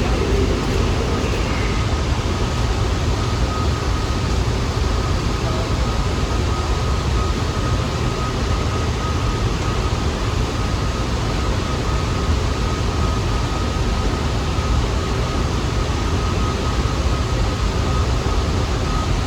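Steady rumbling noise of New York City subway trains, with a faint steady whine above it and no change in loudness.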